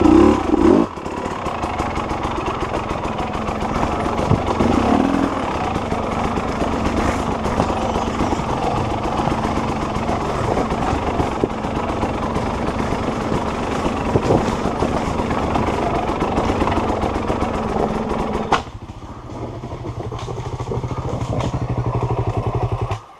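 Off-road enduro motorcycle engine running at low revs as the bike crawls over a rocky trail. About eighteen seconds in it drops to a steady idle, and it stops right at the end.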